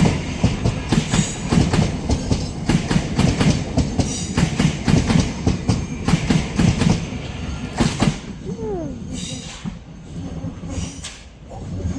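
Train passing through the station, its wheels clattering rhythmically over the rail joints. The clatter dies away after about eight seconds, with a brief falling squeal as it goes.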